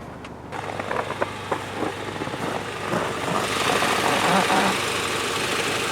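Tank 300's engine idling close by, getting louder about three seconds in, with scattered clicks and knocks over it.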